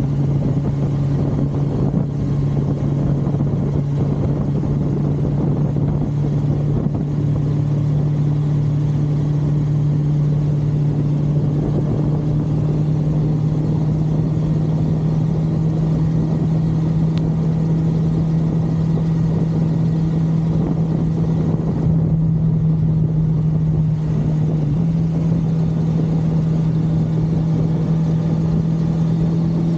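1982 Suzuki GS550L's air-cooled inline-four engine running at a steady cruise on the road, its pitch slowly creeping up with a small step up near the end, over wind noise.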